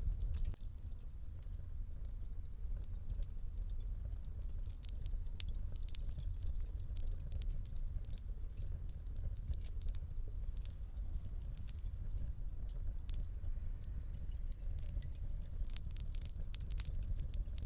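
Wood fire crackling in a fireplace: a steady stream of small sharp pops and snaps over a low rumble of flame.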